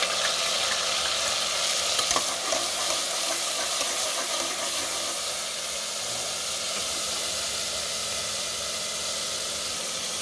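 Ginger-garlic paste and chopped onion sizzling in hot oil in a pressure cooker, a steady frying hiss that is a little louder just after the paste goes in and then settles. A few light clicks about two seconds in.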